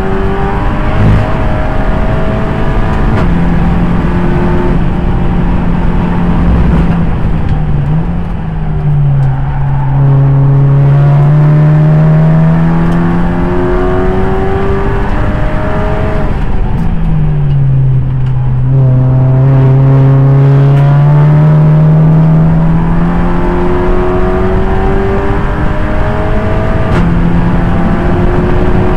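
Audi TT race car's engine running hard on track, its note dipping and climbing back up twice as the car slows for corners and accelerates out again.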